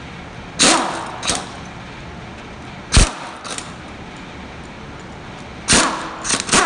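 A power tool working the valve cover bolts of a Chevrolet 5.3 LS V8, in short sharp bursts of about seven, several trailing off in a falling whine.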